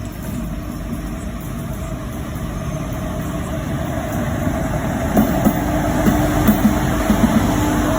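Train wheels running on the rails: a steady rumble that grows gradually louder, joined about five seconds in by a quick series of knocks and a held steady tone.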